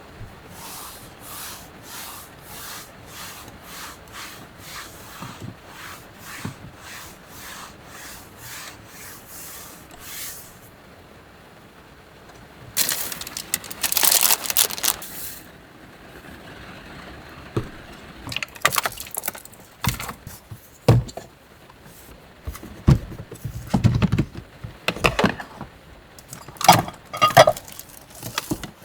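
A regular ticking, about two a second, for the first ten seconds. Then a loud burst of rustling and scraping, and later a run of scattered knocks and clatter, like things being handled in a small space.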